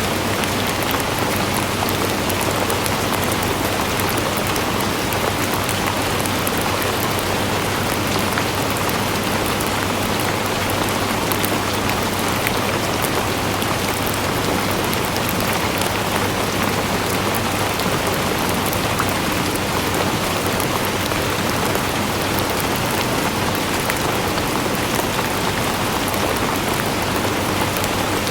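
Steady rain falling, a dense even patter with many small drop ticks and no change in strength.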